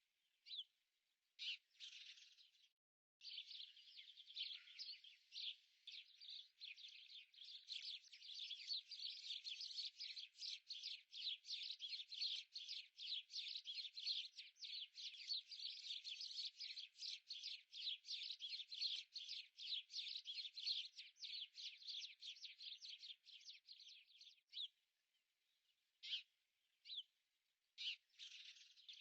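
Small bird singing a long run of rapid, high chirps, about five a second, with a few short separate chirp bursts before and after.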